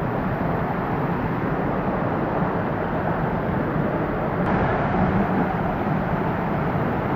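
Waterfall and stream water rushing, a steady even roar of falling water.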